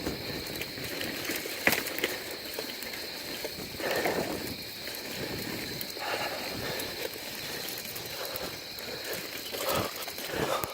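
Bicycle ridden over a dirt trail: tyres rolling and crunching over the ground, with scattered clicks and knocks from the bike and several swells of rustling.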